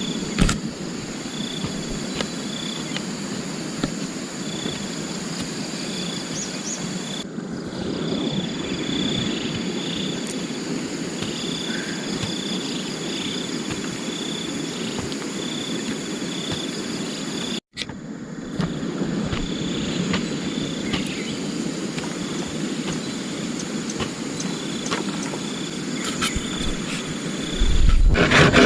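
Forest ambience: insects chirping in short repeated pulses at one high pitch over a steady low rush. Near the end a loud wood-on-wood rubbing and rasping starts.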